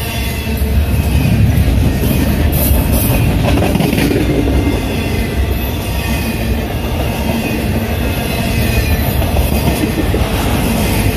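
Union Pacific container freight train rolling past: a steady, loud rumble of steel wheels on rail, with a faint high wheel squeal.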